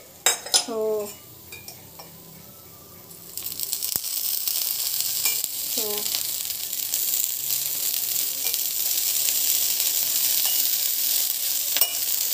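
Corn cutlets shallow-frying in oil on a tawa, sizzling steadily. The sizzle comes in abruptly about three seconds in.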